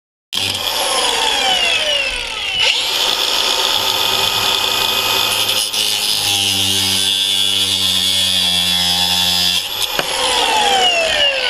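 A power tool running steadily as it cuts, trimming down a part whose screws hit the plywood before it could seat against the roof; the pitch sweeps near the start and again near the end.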